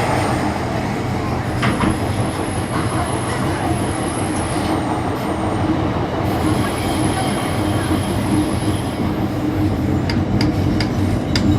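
MTR Disneyland Resort Line M-Train running, heard from inside the car: a steady rumble with a thin, high wheel squeal that comes and goes, and a few sharp clicks of the wheels over rail joints near the end.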